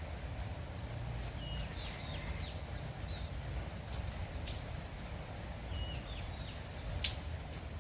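Steady light rain with a few sharp drips ticking, while a bird gives two short runs of quick high chirps.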